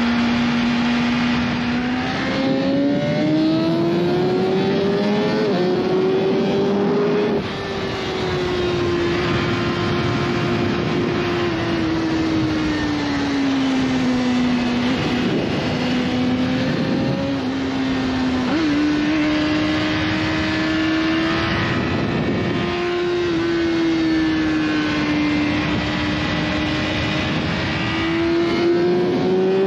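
BMW S1000RR's inline-four engine running hard at high revs, its pitch climbing and easing with the throttle. There is a brief dip and pitch drop about seven seconds in, like a gear change, and a sudden step in pitch later on, over a steady rush of wind noise.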